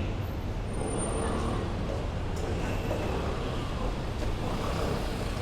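Steady rush-hour road traffic: engines of buses, cars and motorcycles running in a continuous low rumble, with faint voices mixed in.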